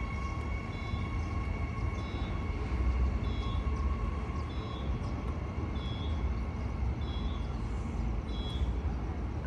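Electric train standing at a station platform: a steady low rumble with a short high beep repeating about every 1.3 seconds, and a steady two-tone hum that fades out about three seconds in.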